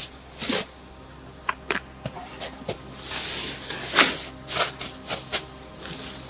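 Footsteps crunching in deep, thawing snow: an irregular series of short crunches, with a longer dragging crunch about three seconds in.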